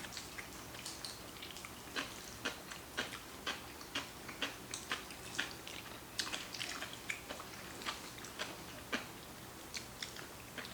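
A person chewing and eating black bean noodles close to the microphone: faint, short, wet mouth clicks, about two a second.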